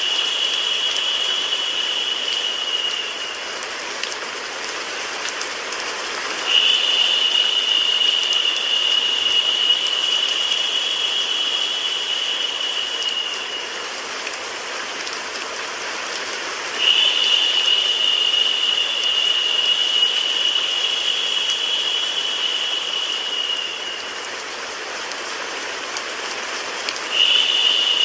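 Steady rain sound mixed with white noise, an even hiss without a beat. A higher, narrower hiss cuts in suddenly about every ten seconds, lasts about seven seconds, then fades, so the loop swells and eases in a repeating cycle.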